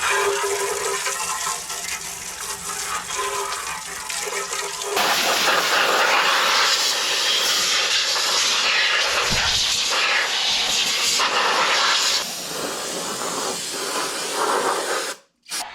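Steady rushing, spraying hiss, like water or air being sprayed, getting louder about five seconds in and breaking off abruptly just before the end.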